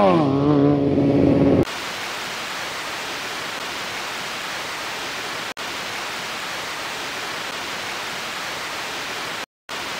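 A motorcycle engine revs up and down, then settles and cuts off abruptly about a second and a half in. After that there is only a steady hiss like static, which drops out twice for a moment.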